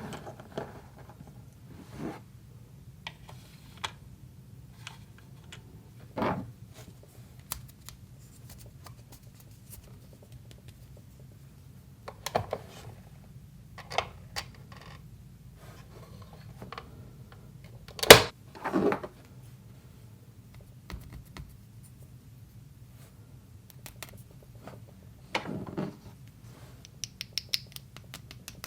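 Small plastic pieces of a miniature toy kitchen set being handled: scattered clicks, taps and short scrapes, with one sharp click about two-thirds of the way through.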